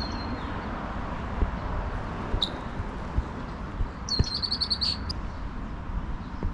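Small songbird chirping: a short high note, a single chirp a couple of seconds later, then a quick run of about eight rapid high notes near the end, over a steady low background rumble with a few soft knocks.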